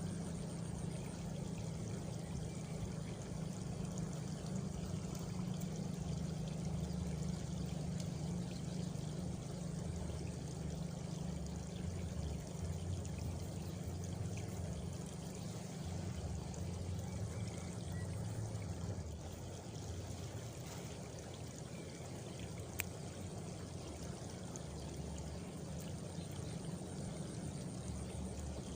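Countryside nature ambience: a steady rushing, water-like noise, with a faint high cricket trill near the start and the end and a single sharp click late on.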